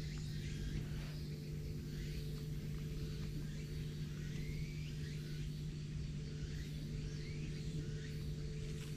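Small birds chirping in short rising calls, several times from the middle of the stretch on, over a steady low hum.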